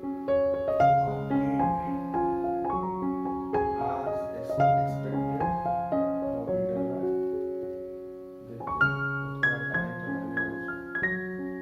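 Background piano music: a slow melody of held notes, easing off about eight seconds in before a new phrase begins.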